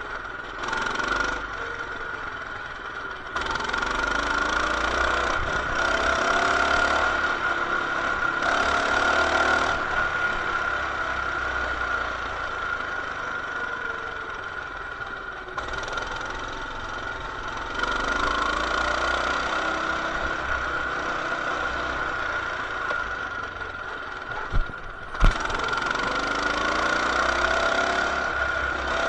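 Coleman BT200X mini bike's 196cc single-cylinder engine running under way, speeding up and easing off several times, with a steady high whine throughout. Two sharp knocks near the end.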